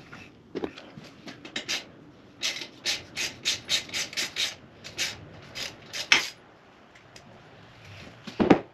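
Locking pliers working at the dirt bike's exhaust expansion-chamber retaining springs: a quick run of short metal scrapes, about three a second, then a sharp click a little after the middle and a louder clack near the end.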